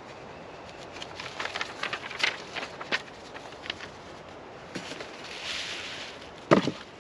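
Handling noises: a run of short clicks and rustles, a brief hiss, then one sharp knock about six and a half seconds in, the loudest sound.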